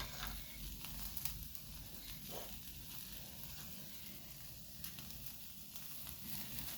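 Food sizzling in a frying pan: a steady, fairly quiet hiss with a few scattered small crackles.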